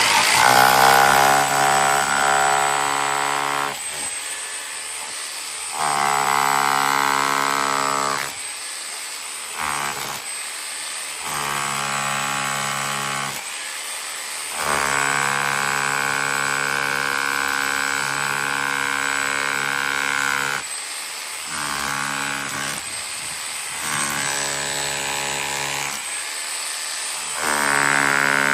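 Parkside PBH 1050 D4 rotary hammer running in repeated bursts, switched on and off about eight times, each run lasting one to six seconds and rising in pitch as it spins up.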